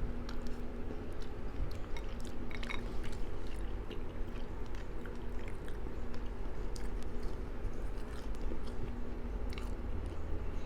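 Close-miked mouth sounds of a person eating gumbo: chewing with wet smacks and small clicks, over a steady low hum.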